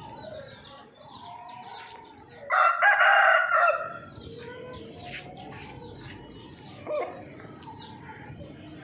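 Aseel rooster crowing once, loud, starting about two and a half seconds in and lasting over a second. Soft clucking and chirping of other fowl continue throughout.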